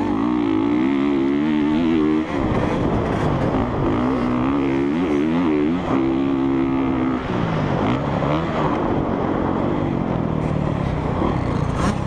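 Dirt bike engine revving up and down on a motocross track, its pitch climbing and dropping as the throttle is worked, with sharp drops in revs about two seconds in and again around the middle.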